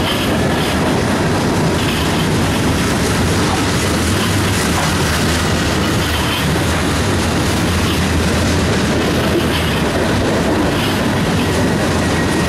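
Mixed freight train of boxcars, covered hoppers and tank cars rolling past, its steel wheels making a steady loud rumble and clatter on the rails.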